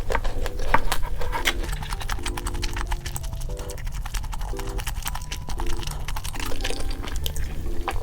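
Cheerful background music with short plucked notes, over close-miked eating: sharp crisp crunching clicks, densest in the first two seconds and again near the end.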